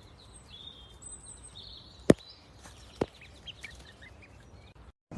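Quiet outdoor background with faint high bird chirps, broken by two sharp clicks about a second apart.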